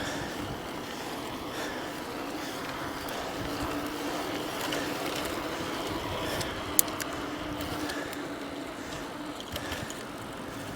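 Steady riding noise from an e-bike on pavement: tyre rumble and wind, with a faint steady hum through the middle and a single sharp click about seven seconds in.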